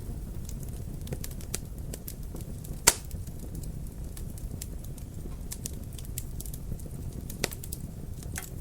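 Wood fire crackling over a steady low rumble, with scattered small clicks and two louder sharp pops, about three seconds in and about seven and a half seconds in.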